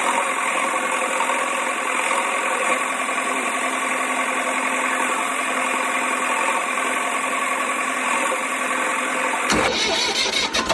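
Engine sound from a toy JCB backhoe loader running steadily, thin and without low rumble as from a small toy speaker. Near the end it switches abruptly to a rougher, deeper sound with rapid clicking.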